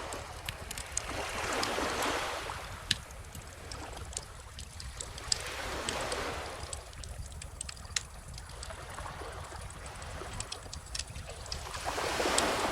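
Calm ocean waves washing in, three gentle swells of surf, while a wood bonfire crackles and pops throughout with sharp, irregular snaps.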